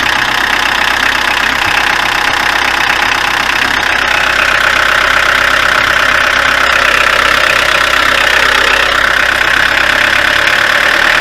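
Nissan CD20 2.0-litre four-cylinder diesel engine idling steadily, running again on a newly fitted crankshaft sensor.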